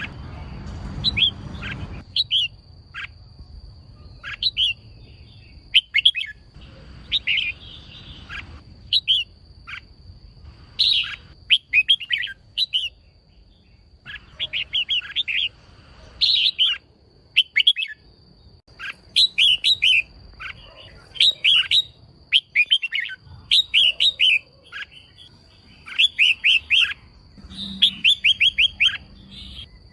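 Female red-whiskered bulbul calling in short runs of quick chirps, repeated every second or so, over a faint steady high tone. It is the kind of female call played to excite male bulbuls into singing.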